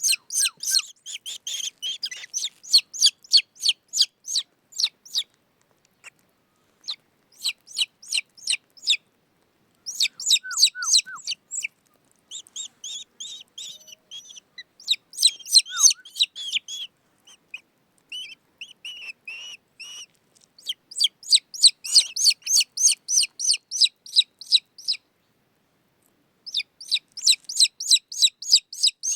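Young raptor chicks giving high-pitched, rapidly repeated food-begging calls at feeding time, about four notes a second, in bouts of a few seconds with short pauses between them.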